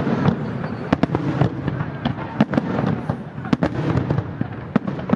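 Aerial fireworks display: shells bursting in rapid, irregular succession, sharp bangs several times a second over a continuous rumble and crackle.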